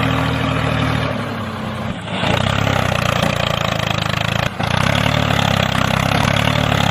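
Steady motor running with an even hum. It sags in level and drops in pitch between about one and two seconds in, and breaks off for an instant about four and a half seconds in.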